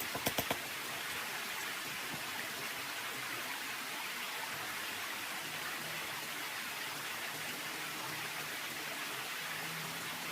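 A steady, even hiss, with a few sharp clicks in the first half-second.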